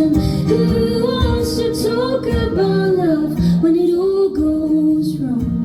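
A woman singing long, sliding notes in a live pop-folk song, with instrumental accompaniment.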